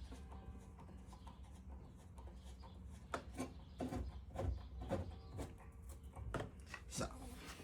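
Faint, irregular clicks and knocks of hand work on the van's parts, over a low steady hum. The knocks come more often in the second half.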